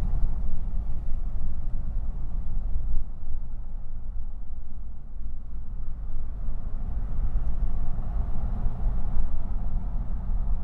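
Steady low exhaust rumble of a 2006 Jeep Commander's 5.7-litre HEMI V8 through a custom true dual exhaust with an IMCO dual-in/dual-out performance muffler, heard from inside the cabin with the windows down while driving.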